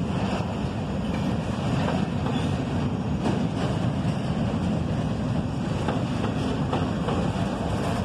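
Intermodal double-stack well cars rolling past on steel wheels: a steady low rumble of wheels on rail, with a few faint clicks.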